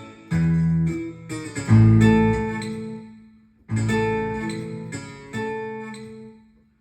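Bajo sexto sample played on a Medeli AKX10 keyboard: a few strummed twelve-string chords with deep bass notes, each struck and left to ring out.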